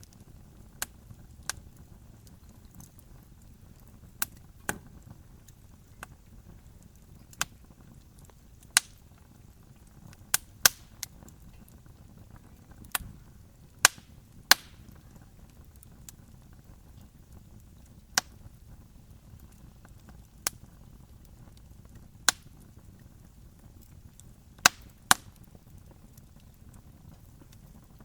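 Campfire crackling: sharp, irregular pops and snaps of burning wood, a few seconds apart and sometimes in quick pairs, over a faint low hiss.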